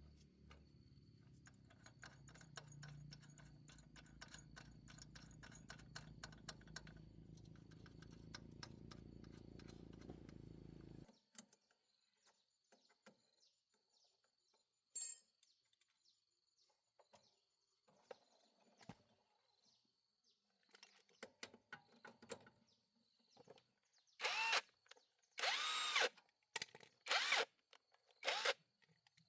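Cordless drill driving screws in five short bursts near the end, each one spinning up and winding down. Before that, a low steady hum with light clicking cuts off suddenly about eleven seconds in.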